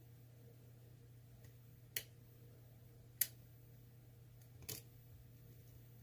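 Lock pick working the pins of an ASSA Twin lock: three short sharp clicks about a second apart, the second the loudest and the third softer, over a faint steady hum.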